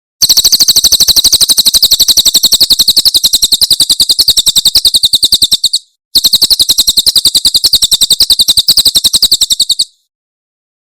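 A cililin bird singing its 'tembakan' song: two long runs of rapid, evenly repeated sharp high notes, more than ten a second. The first run lasts about five and a half seconds, then a short break, then a second run of about four seconds.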